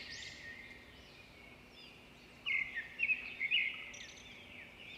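Faint birds chirping in the background, with a few short, louder chirps about halfway through.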